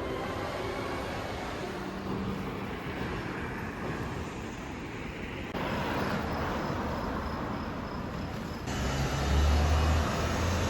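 City street traffic noise, a steady hum of passing vehicles, with a louder low engine rumble about nine seconds in as a vehicle passes close.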